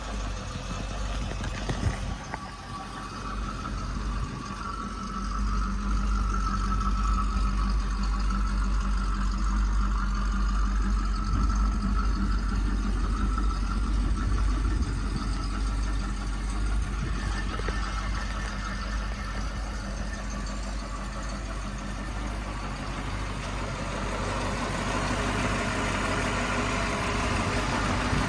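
1964½ Ford Mustang engine idling while still cold, just after a cold start. The steady low running note picks up about five seconds in, eases off around the middle and picks up again near the end.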